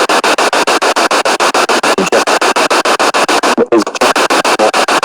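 Spirit box sweeping rapidly through radio stations: a loud, even chopping of static at about twelve cuts a second, with a brief break a little over three and a half seconds in.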